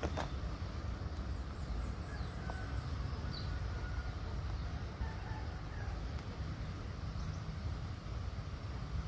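Outdoor garden ambience: a steady low rumble, with a few faint bird chirps a few seconds in.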